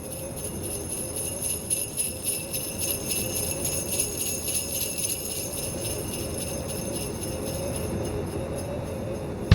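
Sleigh bells shaken in a steady, even rhythm, growing louder over the first couple of seconds, over a low steady rumble.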